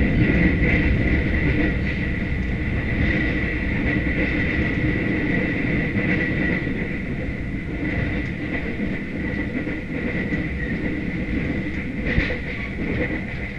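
Passenger train running at speed, heard from inside a stainless-steel carriage: a steady rumble of wheels on rail with a thin steady high whine, slowly getting quieter. A sharp click about twelve seconds in.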